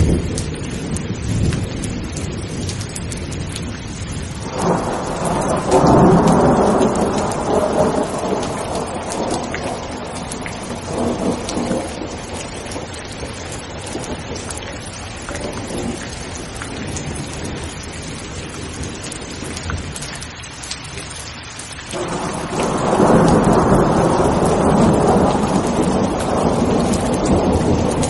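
Steady heavy rain with rolling thunder: one long rumble swells up about five seconds in and fades over several seconds, and another builds about 22 seconds in and is still rolling at the end.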